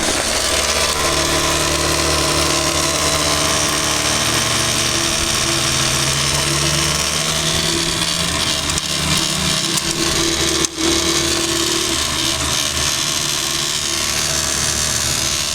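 Electric drywasher running with a steady motor hum and rattle, dropping out briefly about ten seconds in.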